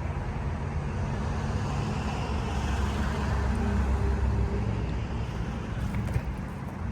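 Steady low rumble of vehicle engines with a faint hum.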